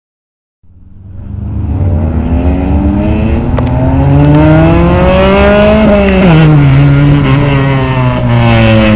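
Honda CRX with a very loud aftermarket exhaust accelerating. The note climbs steadily in pitch, drops sharply about six seconds in, then carries on at a lower pitch.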